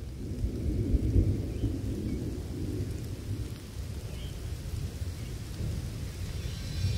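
Low, grainy rumble like distant thunder, swelling about a second in and then holding steady.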